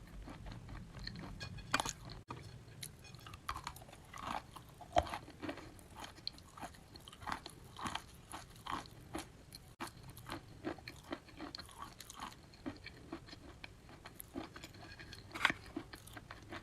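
A person chewing and crunching wet chalk, irregular crunches a few times a second, with one louder crunch near the end.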